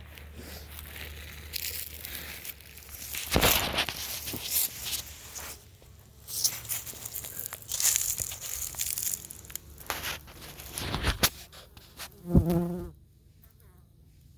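Rustling and knocking of close handling at an open beehive, over a low steady hum, with a honey bee buzzing right by the microphone for about half a second just after twelve seconds in.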